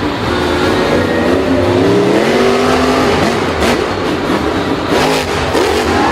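A motor vehicle's engine revving, its pitch gliding up and down and climbing steadily for a couple of seconds in the middle.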